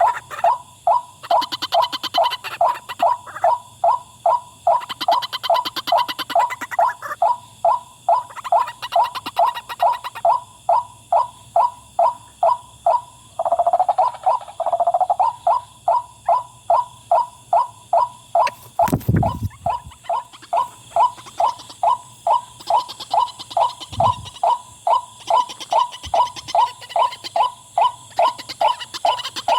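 White-breasted waterhen giving its monotonous 'wak-wak' call, about two calls a second without a break. There is a low thump about nineteen seconds in.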